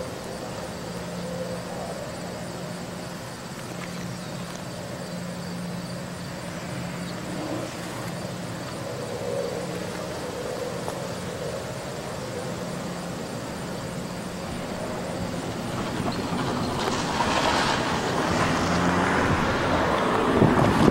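Diesel locomotive approaching at the head of a freight train, a steady engine drone with a rumble that grows louder over the last few seconds as it nears.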